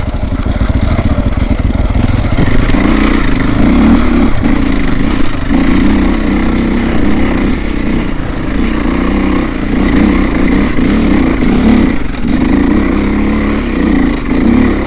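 Dirt bike engine running hard under throttle, its level rising and falling with brief dips a few times as the throttle is worked.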